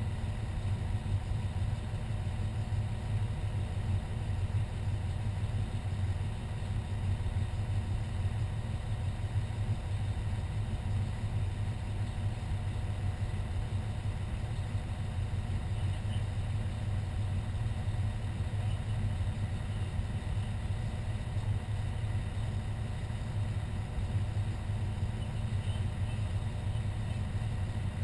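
Fire engine's engine idling steadily, a low even rumble that holds the same level throughout.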